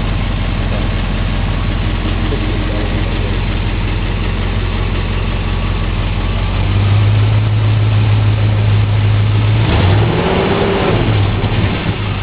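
International Harvester Scout II's stock 345 V8 engine running steadily at idle. About seven seconds in it gets a little louder, and near the end its pitch rises and falls once.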